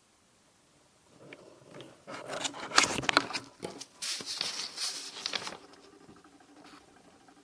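Paper pages of a bullet journal being handled and turned, a run of rustling and crackling that starts about a second in, is loudest over the next few seconds and dies away near the end.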